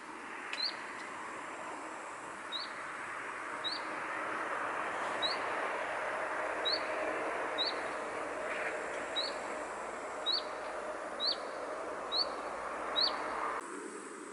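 A small bird calls a short, sharp chirp about once a second, eleven times in all, over a steady rushing outdoor background. Near the end the background cuts off abruptly and a thin, high, steady insect trill takes its place.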